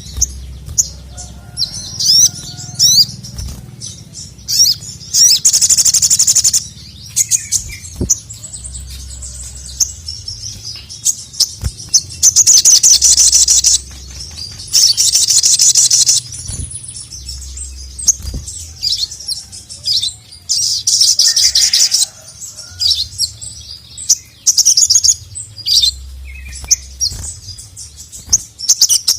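Sogon (sogok ontong), a nectar-feeding songbird, singing loudly: several fast, high-pitched chattering bursts about one and a half seconds long, separated by shorter sharp chirps and calls.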